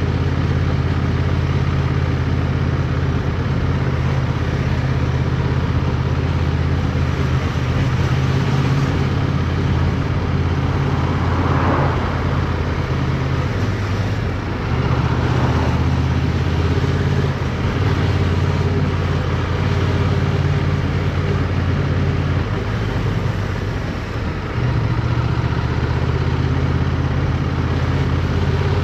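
Motorcycle engine running steadily while riding, heard from on the bike, with two brief drops in the engine note about halfway through and near the end. A rushing noise swells twice near the middle.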